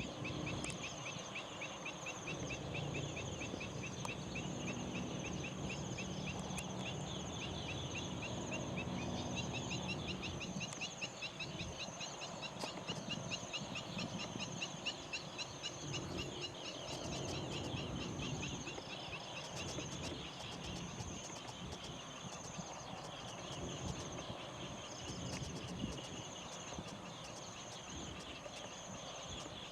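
Evening nature chorus: a steady high insect whine with long runs of fast, repeated chirping, and low animal calls underneath during the first few seconds.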